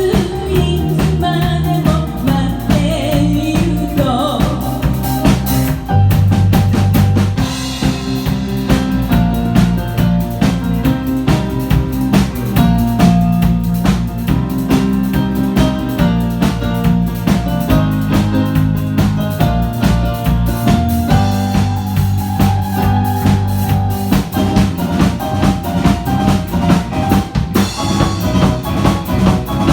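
Instrumental passage of a pop song played by a small band: drum kit with snare rimshots and bass drum keeping a steady beat under bass and keyboard, with no singing.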